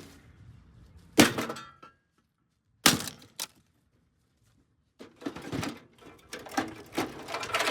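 Sledgehammer blows smashing a Hamilton Beach microwave oven: two sharp hits about a second and a half apart, each with a short ringing tail, then after a pause a run of rapid clattering knocks as the casing and parts break.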